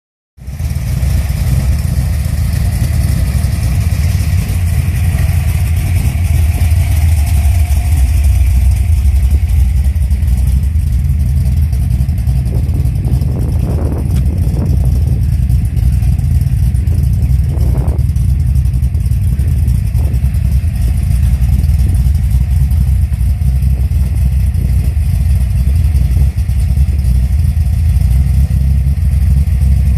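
Ford XY Falcon GT's newly fitted 393 cubic-inch stroker V8 running at a loud, steady idle, deep and low.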